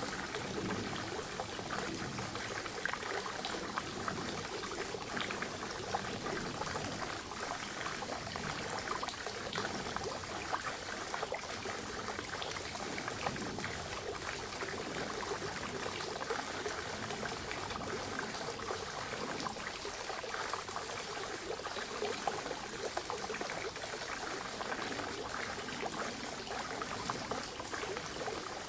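Water from a small forest spring trickling and splashing steadily into a pond, a continuous bubbling pour.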